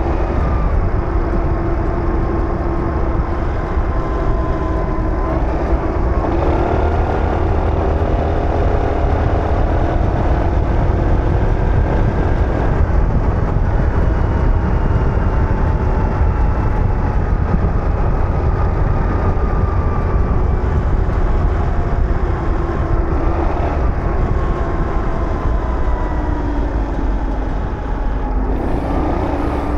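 Aprilia SR GT 200 scooter's single-cylinder engine under way, its pitch rising and falling with the throttle, over a heavy rumble of wind.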